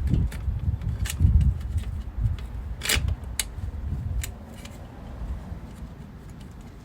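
Scattered light clicks and knocks over low bumping noise, as tools or parts are handled, growing quieter after about four seconds.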